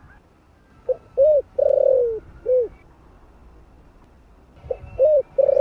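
Spotted dove cooing, a four-note phrase: a short note, a rising-and-falling note, a long note sliding down in pitch, then a short final note. The same phrase starts again near the end.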